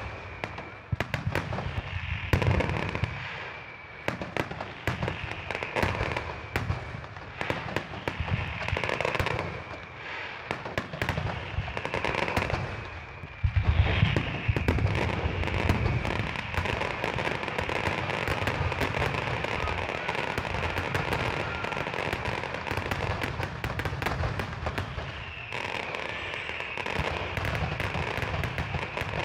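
Aerial fireworks display: a dense run of bangs and crackling bursts. About halfway through, a loud burst opens a near-continuous barrage that runs on to the end.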